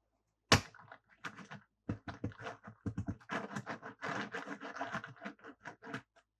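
Plastic toys and packaging being handled: a sharp snap about half a second in, then a quick run of clicks, taps and scrapes.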